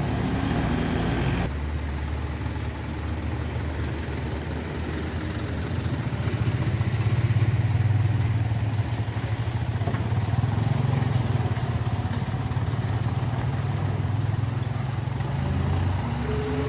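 Truck engine running with a steady low hum, a sudden change about a second and a half in, then swelling louder for a few seconds in the middle before settling.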